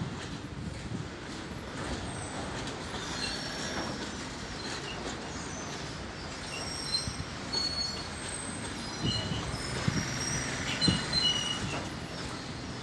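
Freight train wagons rolling along the track, with short high-pitched wheel squeals and a few dull knocks in the second half.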